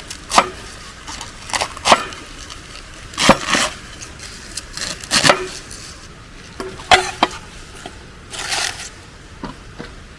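Irregular sharp knocks and clacks, about a dozen, some with a brief ringing tone.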